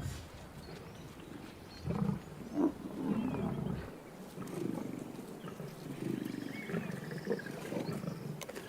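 Lions growling in irregular, rumbling bouts over a freshly downed buffalo calf, loudest a couple of seconds in.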